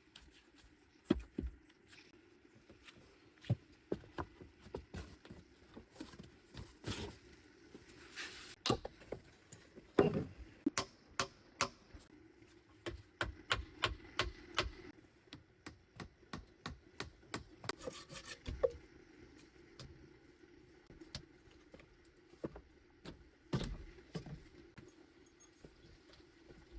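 Irregular knocks, taps and rubbing from hand work, with two brief rustles about eight and eighteen seconds in.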